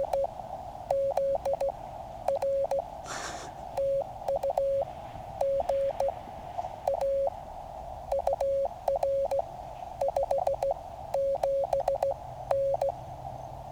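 Morse code from a QCX mini QRP transceiver: a single steady tone keyed on and off in dits and dahs over a narrow band of steady receiver hiss.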